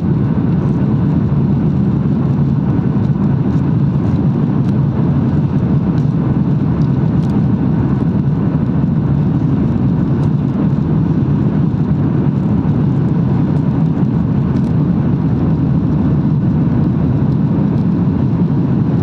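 Airliner cabin noise from inside the plane after takeoff: the jet engines and rushing air make a loud, steady, low rumble that does not change.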